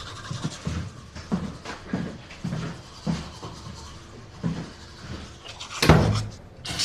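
Footsteps on a hard floor, about two a second, then a louder knock near the end as a door closes.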